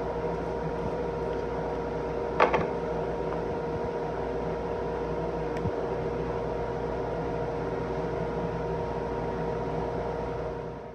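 A steady machine hum with a couple of constant tones in it, and one sharp click about two and a half seconds in.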